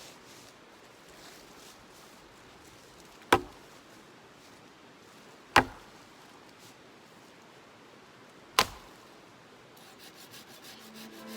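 Three sharp knocks of a tool striking wood, two to three seconds apart, each with a short ring after it.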